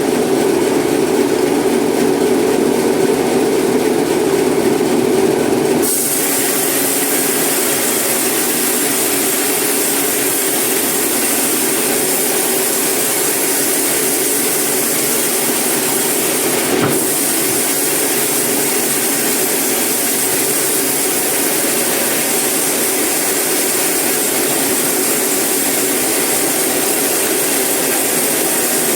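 Sawmill saw cutting eucalyptus wood, a loud steady machine noise. About six seconds in the sound changes abruptly to a brighter, hissier tone and then holds steady.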